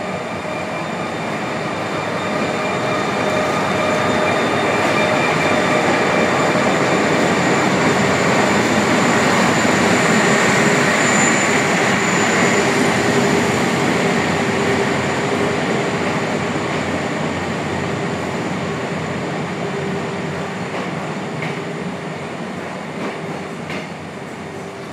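A Korail diesel-hauled passenger train rolls slowly into the station, coming to a stop. The rumble of the locomotive and the wheels on the rails is mixed with steady high squealing tones. It grows louder up to about ten seconds in, then fades as the coaches ease past.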